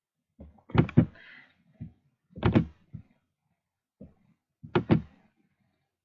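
Several dull knocks or thumps in a small room, two of them in quick pairs, with quiet between.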